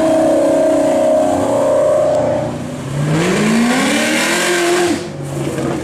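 Performance car engine accelerating away: first a steady note, then the revs climb from about three seconds in, dip briefly near five seconds and climb again, like a gear change under hard acceleration.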